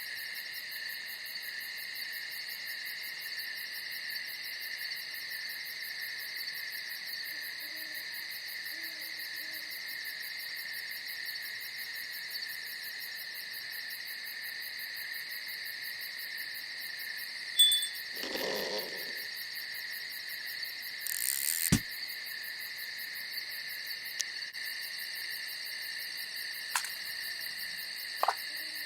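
Night insect chorus of crickets trilling steadily and high-pitched, with faint low hoots of an owl. A few sharp knocks break in around two-thirds of the way through, one followed by a short muffled rustle.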